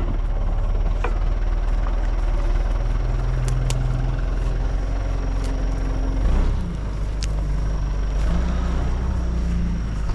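Backhoe engine running steadily, its note shifting in pitch a few times, with a few light clicks and a louder swell about six seconds in.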